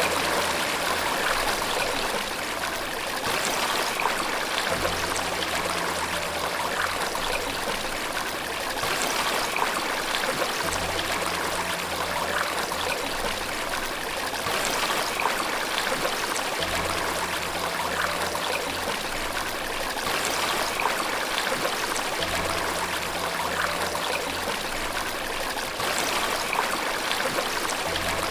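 Steady rushing and trickling of running water, with a soft low tone that comes back about every three seconds.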